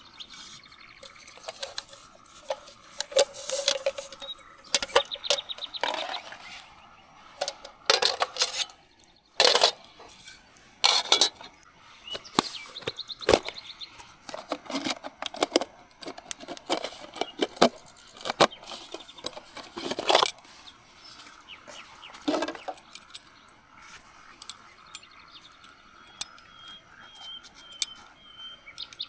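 Irregular clinks, knocks and rustles of camping gear being handled, stopping about 22 seconds in. A faint short bird call comes near the end.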